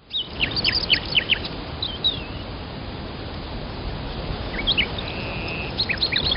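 Small birds chirping: clusters of short, quick, downward-sweeping calls over a steady hiss of outdoor ambience, with a brief steady trill about five seconds in.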